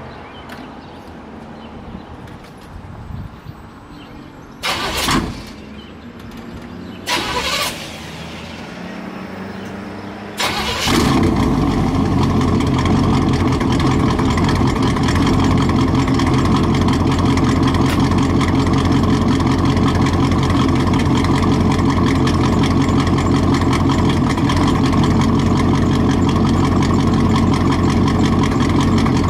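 Straight-piped, carbureted 350 small-block V8 with headers: two short loud bursts, then about ten seconds in the engine fires and settles into a steady, loud, even-pitched idle.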